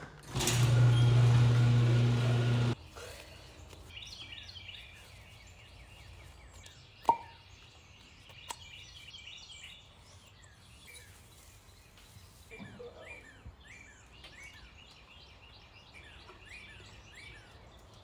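Electric door-opener motor humming loudly for about two and a half seconds after its wall button is pressed, cutting off abruptly. Then birds chirp steadily, with two sharp clicks.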